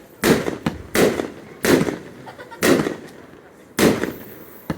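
Fireworks display: about five aerial shells bursting in a string of loud bangs, roughly one a second, each trailing off quickly.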